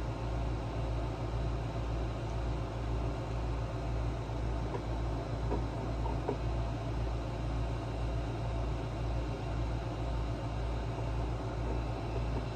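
Generac GP2200i inverter generator's single-cylinder engine running at a steady speed, a low even pulse of about two beats a second, with a few light clicks in the middle.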